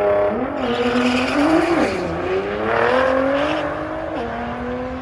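Nissan GT-R's twin-turbo V6 on E85 launching off the line and accelerating hard, its pitch climbing through the gears with sharp drops at upshifts about two and about four seconds in, fading as the car pulls away.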